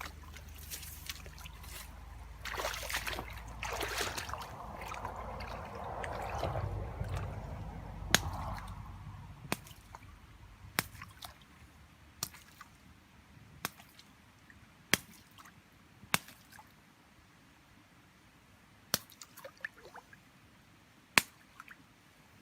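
Water sloshing and splashing for the first several seconds, then a series of sharp single clicks or drips about every second and a half.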